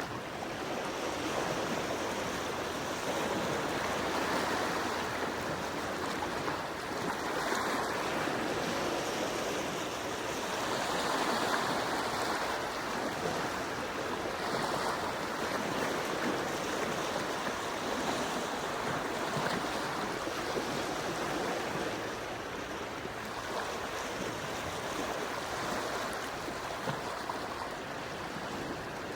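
Gentle sea waves washing ashore, a steady wash that swells softly every few seconds.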